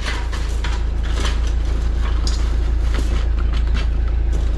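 A steady low rumble of a running engine, with light clicks and clanks over it.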